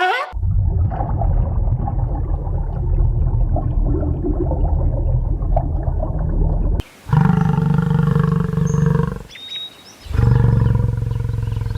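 A large animal calling with deep, drawn-out calls. First comes a long low rumbling call lasting about six seconds. Then, starting about seven and ten seconds in, there are two steady deep calls of two to three seconds each.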